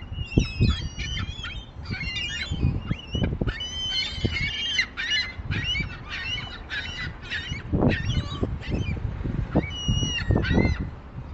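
Seagulls squabbling, giving a rapid series of short, high calls, well over a dozen in a few seconds, over a low rumble.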